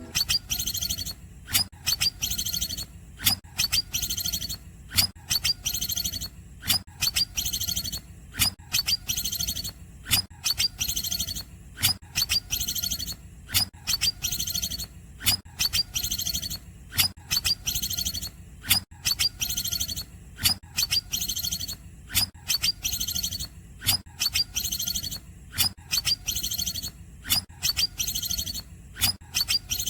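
Green leafbird (cucak ijo) singing a fast, repetitive 'cungkokan' song. Sharp calls come about once a second, with rapid, high chattering trills between them.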